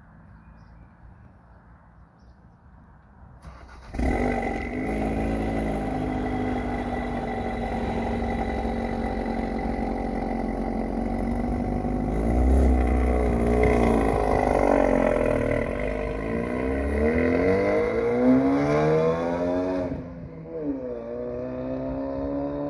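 Ford Focus RS engine starting with a sudden catch about four seconds in, then idling steadily. Later it is revved up and down as the car pulls away, with a sharp drop in pitch near the end at a gear change before it climbs again.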